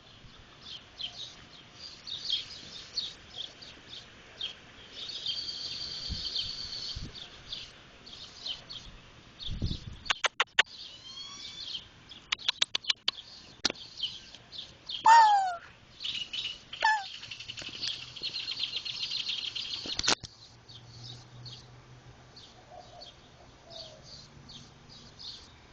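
Small birds chirping and twittering, with two stretches of continuous high trilling. A run of sharp clicks comes about ten to thirteen seconds in, and a loud falling call about fifteen seconds in.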